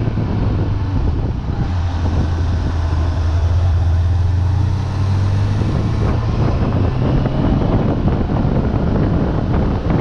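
Suzuki Bandit 600's inline-four engine on its original exhaust, running under throttle with its pitch slowly climbing from about two seconds in; the engine note changes around six seconds in. Wind noise rushes across the microphone throughout.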